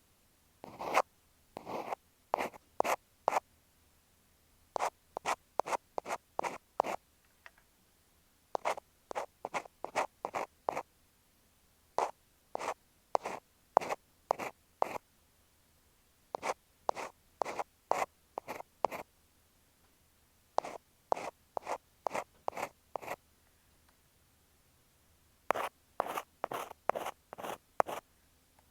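Ear pick scraping over an earphone microphone, an ear-cleaning ASMR sound. It comes in short runs of quick, crisp scratchy strokes, about three a second, with brief pauses between the runs.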